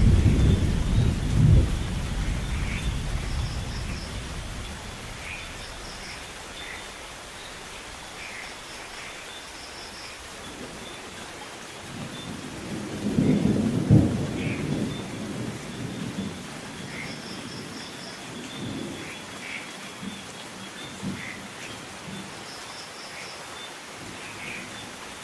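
Steady rain with rolling thunder: a rumble dies away over the first few seconds, and a second peal swells and peaks a little past halfway before fading. Faint short high chirps recur in small groups over the rain.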